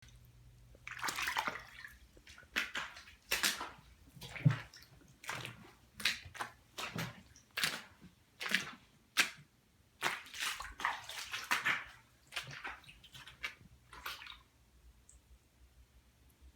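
Water sloshing and splashing in irregular surges, about one a second, dying away near the end.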